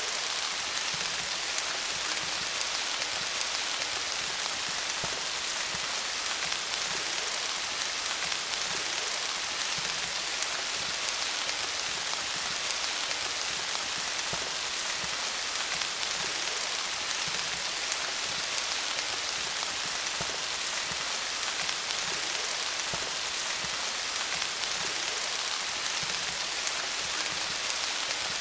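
Steady rain falling on leaves: an even hiss of many small drops pattering, with no change in intensity.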